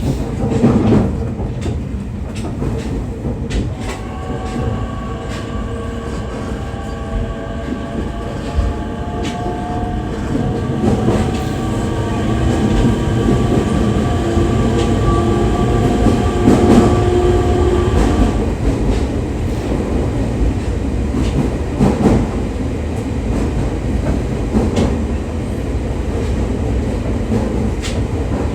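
Electric commuter train running, heard inside the carriage: steady wheel and track rumble with scattered rail clicks. A whine of several tones rises gently from about four seconds in, holds, and dies away a little after the middle. This is the train's motors under power.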